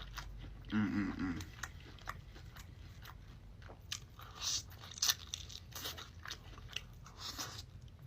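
Close-up chewing and crunching: a person eating, with many short, sharp crunches and mouth clicks.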